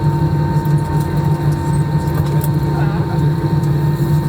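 Steady cabin noise of a Lufthansa airliner with its engines running: a constant low hum with a few steady tones above it.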